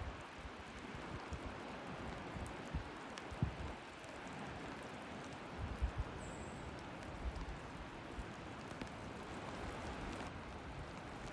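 Steady hiss of rain outdoors, with scattered low thumps of wind buffeting the microphone.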